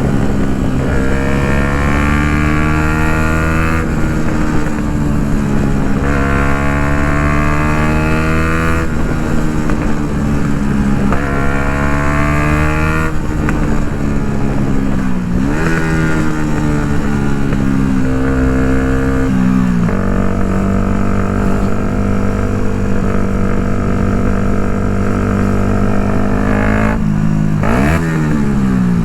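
Yamaha MT-125's single-cylinder four-stroke engine through an Akrapovic full exhaust, under way. It revs up in pitch several times, dropping at each gear change about 4, 9 and 13 seconds in. It then holds a steady note for several seconds before a quick drop and rise in revs near the end.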